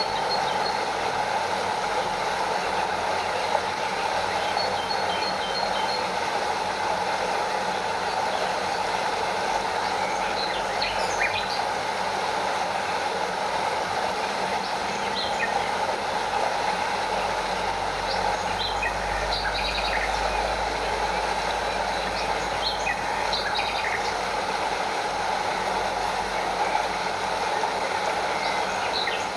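A stream and small waterfall run with a steady rushing sound, and birds give short chirps here and there.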